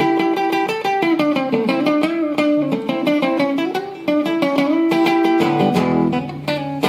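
Blues guitar playing an instrumental break between sung lines: picked single notes, several of them bent up and down in pitch, over a steady picked rhythm.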